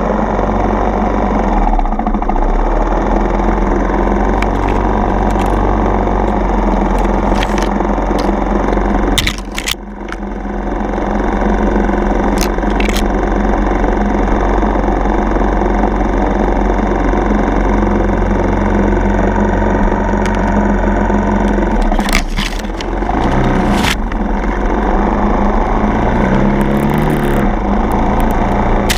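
Yamaha TT-R230 dirt bike's single-cylinder four-stroke engine running under way, easing off briefly about a third of the way in and again about three quarters in, with short rises and falls in revs near the end. Sharp clicks and knocks sound over it now and then.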